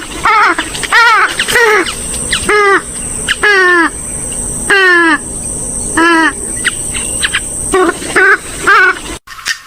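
Swamphen and moorhen calls: a loud series of harsh, nasal calls, each a short note that bends downward, repeated about once every half second to a second. The calls cut off abruptly near the end.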